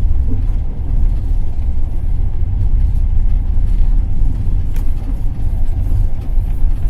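Steady low rumble of a moving passenger train, heard from inside the carriage, with one light click about five seconds in.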